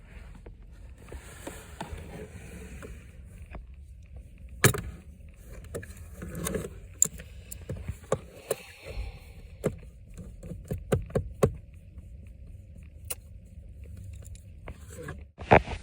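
Metal pliers clicking and scraping against the plastic around a car's steering column while fishing for a dropped hand warmer. A sharp knock comes about five seconds in and a quick run of small clicks follows later, over a low steady hum.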